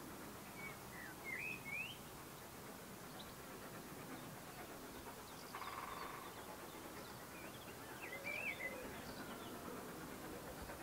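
Birds singing in short chirping phrases, about a second in and again near eight seconds, over a faint steady outdoor background hum. A brief buzzing tone sounds near the middle.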